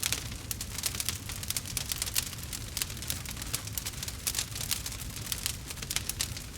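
Campfire crackling: many sharp irregular pops and snaps over a low steady rumble.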